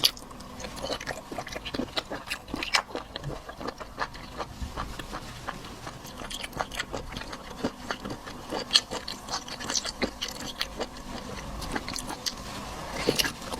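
A person chewing rubbery sea cucumber close to the microphone, with irregular clicks and smacks of the mouth.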